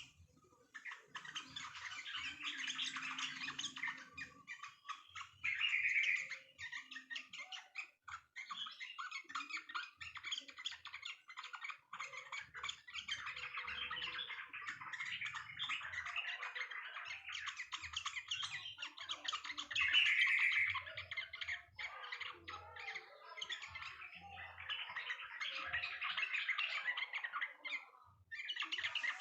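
Sooty-headed bulbuls (trucuk) chattering and chirping in fast, dense runs, with short pauses every few seconds.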